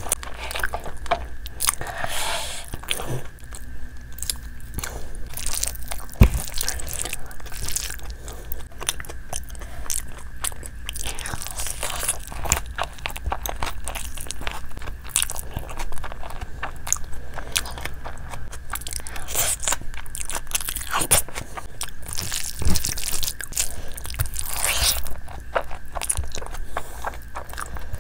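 A person chewing and biting mouthfuls of spicy chicken and fried rice eaten by hand: steady wet chewing with crunchy bites and many small sharp mouth clicks.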